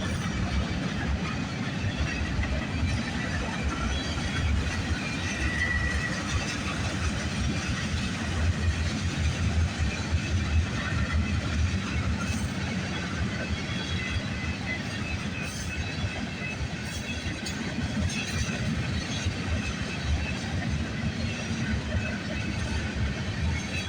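Freight cars of a passing CPKC train rolling past: a steady low rumble of steel wheels on rail with rapid clatter, and a few faint brief high squeals from the wheels.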